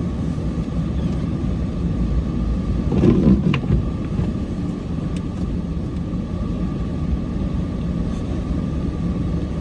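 Cummins diesel truck engine running steadily with a low rumble, plus a short louder burst about three seconds in.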